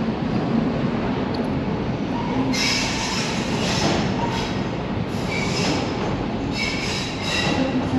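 Docklands Light Railway train running on its track, with metal wheels squealing on the rails in repeated bursts from about two and a half seconds in.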